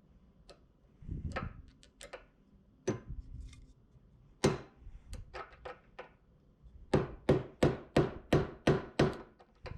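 Sharp metal knocks while working at a tight locating pin in a camshaft: a few scattered strikes, then a quick run of about nine at roughly three a second. The pin is stuck fast and doesn't move.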